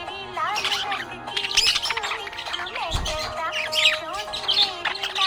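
Budgerigar chirping and warbling: a dense, continuous run of quick rising and falling chirps, with a held note between about three and five seconds in and a brief low bump near three seconds.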